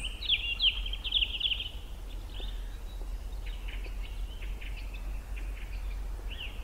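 Songbird chirping in quick high phrases, a bunch of rapid notes near the start, more through the middle and a short phrase at the end, over a steady low rumble.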